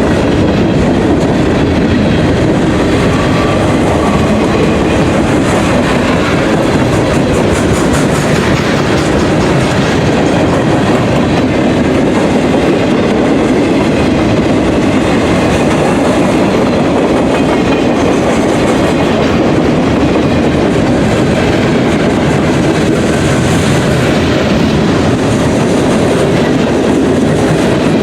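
Freight train rolling steadily past, a loud continuous rumble of cars with wheels clicking over the rail joints.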